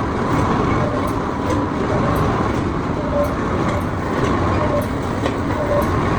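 Steady mechanical noise of workshop machinery running, with faint intermittent tones over it.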